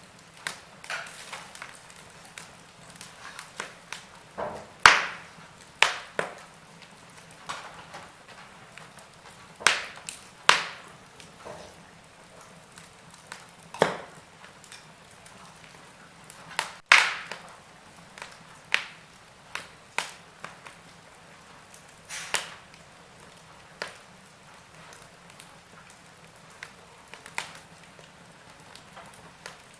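Wood fire burning in a fireplace: irregular crackles and pops from the burning wood, a few of them sharp and loud, over a faint steady hiss.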